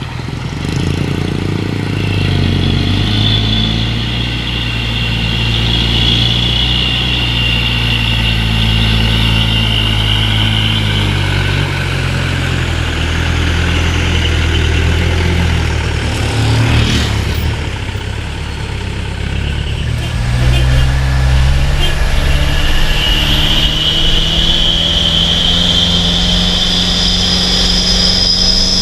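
Heavily loaded dump truck's diesel engine and exhaust labouring up a slope, a steady loud drone with a high whine over it. About two-thirds through it eases briefly, then pulls hard again with a rising whine.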